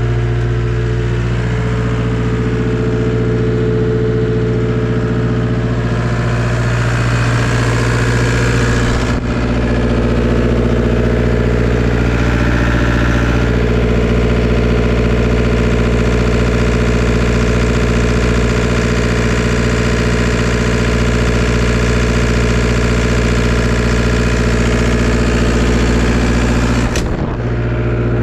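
Diesel engine of a Takeuchi TL250 compact track loader running at a steady speed, with a slight change in tone partway through and two brief breaks, one about a third of the way in and one near the end.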